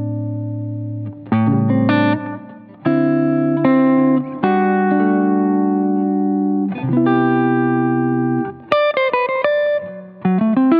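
Clean electric guitar (Fender Stratocaster) played through a Boo analog delay pedal and a Line 6 HX Stomp. It plays slow, sustained chords that change every second or so, then a quicker run of short notes about nine seconds in.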